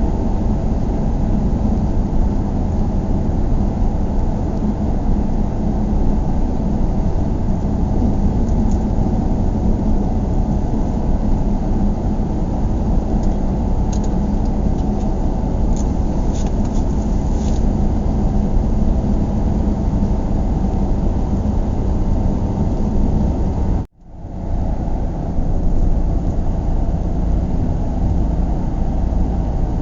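Steady low road and engine rumble of a car driving, heard inside the car. About three-quarters of the way through, the sound cuts out abruptly for a moment and then fades back in.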